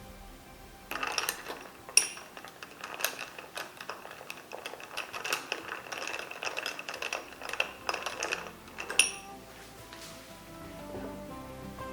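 Ice cubes clinking against a drinking glass in a quick, uneven run of bright clinks that ring briefly, stopping near the end, over soft background music.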